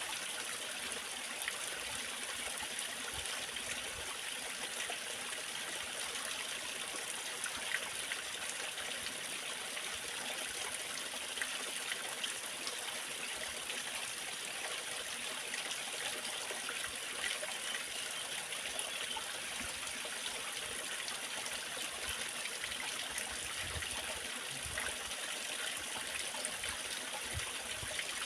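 Waterfall: water falling and splashing in a steady, even rush, with small trickling flickers on top.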